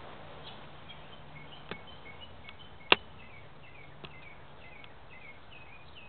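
Faint bird chirps in the undergrowth, short falling notes repeated over and over. A few sharp clicks cut through them, the loudest about three seconds in.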